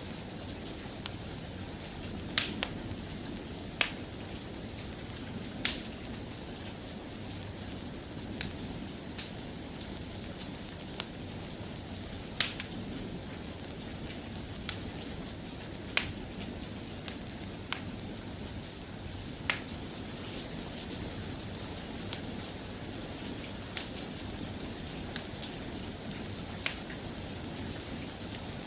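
Steady rain ambience, an even hiss, with sharp single clicks or pops every second or two.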